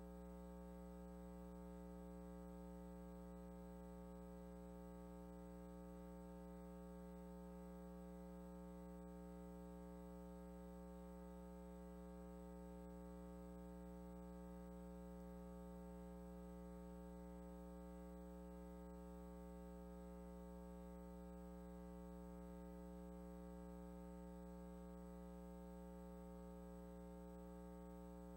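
Faint, steady electrical hum and buzz that never changes, with no other sound: mains hum picked up by the recording chain.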